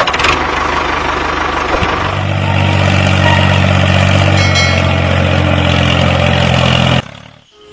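A motor vehicle's engine running steadily, after about two seconds of louder, noisier rushing, and cutting off abruptly about seven seconds in.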